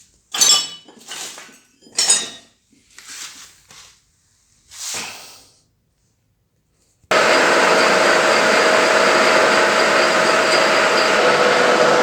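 A few separate metal clinks and clatters of tools or parts being handled, then, about seven seconds in, a metal lathe starts abruptly and runs at a steady, loud hum with a constant whine.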